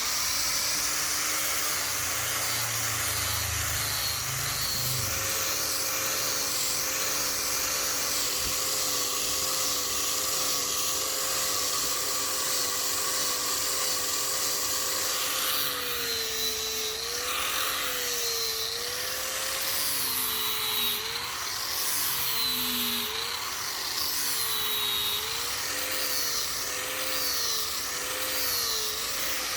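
Small electric power tool running on wood, a steady motor whine over a hiss. In the second half the pitch dips and recovers again and again as the tool is pressed into the work and eased off.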